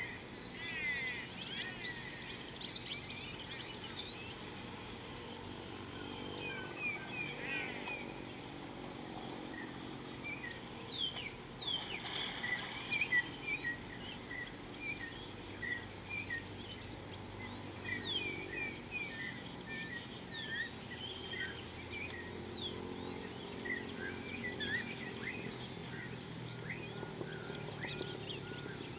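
Several wild birds chirping and calling over a steady low background noise. Many short high notes and quick rising and falling whistles overlap throughout.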